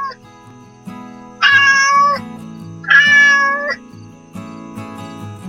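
A cat meows twice, two drawn-out calls of just under a second each, about a second and a half apart, over soft background music.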